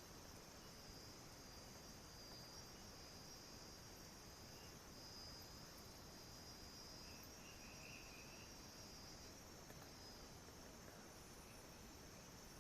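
Faint steady chorus of night insects, crickets trilling high, over a low hiss, with a brief softer chirping about seven seconds in.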